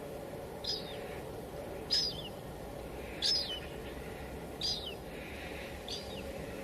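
Steady hiss of light drizzle, with a bird repeating a short, high call that drops at its end, five times, about every second and a third.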